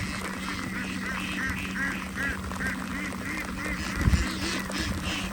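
Flock of domestic ducks quacking, short calls repeating two or three a second over a steady low hum. A dull thump about four seconds in is the loudest moment.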